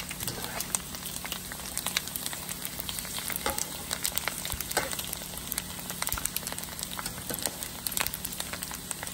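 Puffed pork skin pellets frying in hot oil in a pan: a steady sizzle thick with small crackling pops, while a wire skimmer stirs them through the oil.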